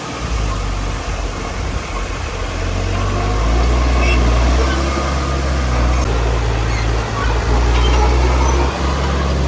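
Heavy diesel engine of earthmoving machinery running steadily at work, its low drone growing louder about three seconds in.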